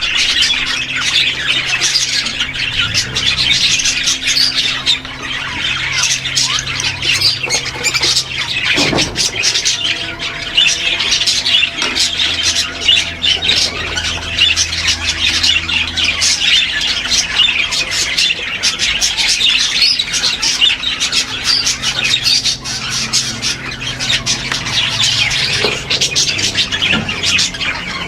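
A crowded aviary of pet parrots such as lovebirds squawking and chattering continuously, many birds calling at once over a faint low steady hum.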